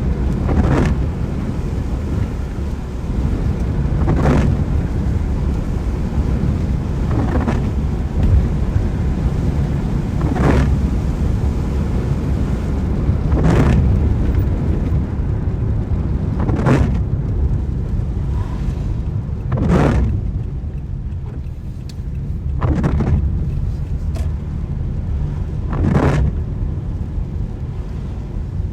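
Car windscreen wipers sweeping across a rain-wet windscreen, a short swish about every three seconds, over a steady low rumble of the car driving on a wet road.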